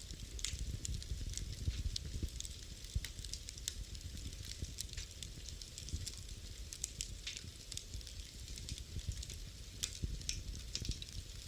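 Wood fire crackling in a fireplace: a steady run of sharp, irregular pops and snaps over a low rumble of burning.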